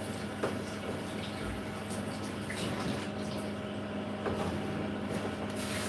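Whirlpool WFO3P33DLXUK dishwasher running its 65° full cycle: the pump gives a steady hum while water sprays and sloshes inside the tub.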